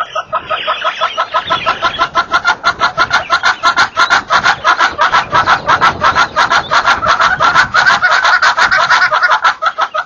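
Birds in a thorn shrub, one calling a long, fast run of short clucking notes, about eight a second, repeated without a break.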